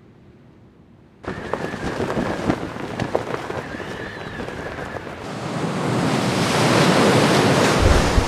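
A rushing noise like wind or surf that starts suddenly about a second in, with a few scattered clicks, and swells louder over the last few seconds.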